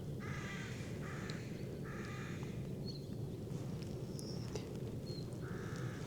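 A crow cawing: three harsh caws in the first two and a half seconds and another near the end, over a steady low background noise.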